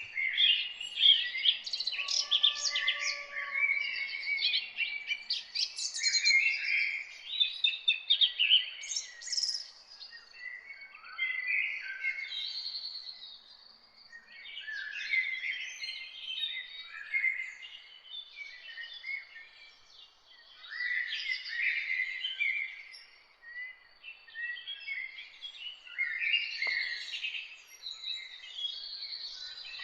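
Several songbirds singing and chirping at once, with many quick overlapping calls and trills. The chorus is busiest in the first ten seconds, then thins into bursts with short lulls.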